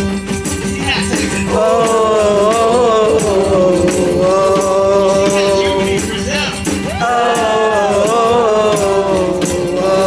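Live rock band playing the intro of a song: held, wavering pitched notes over a steady low drone, with a shaker-like rattle keeping time.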